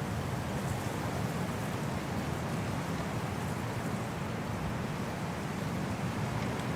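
Winter wind blowing steadily: an even, low rushing with no distinct gusts.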